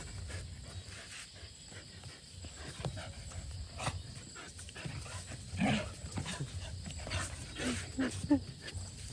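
Dogs making short, scattered vocal sounds close by, a little more active in the second half.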